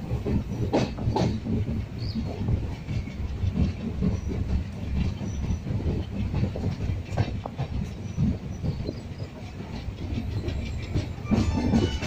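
Passenger train running, heard from inside a carriage by the window: a steady low rumble with irregular clacking of the wheels over the rails. A brief high squeal comes near the end.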